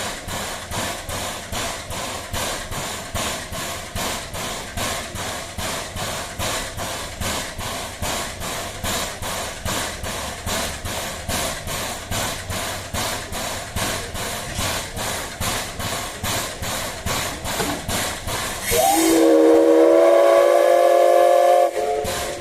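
Steam locomotive chuffing in even exhaust beats, about three a second, then its steam whistle blown once near the end for about three seconds, several tones sounding together, sliding up as it opens before holding steady.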